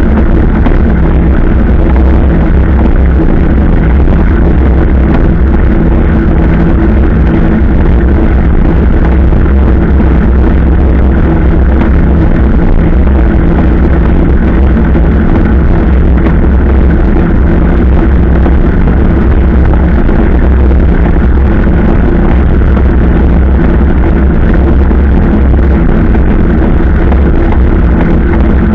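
Motorcycle engine running at a steady cruising speed, a constant low drone with a heavy rumble of wind on the microphone.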